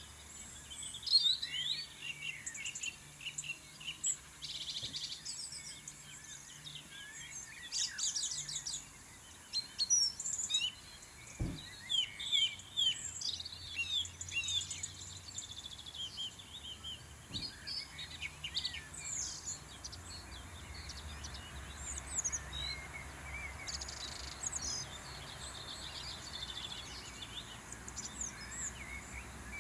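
Songbirds singing and chirping: many short, overlapping high calls and trills, over a faint low steady rumble.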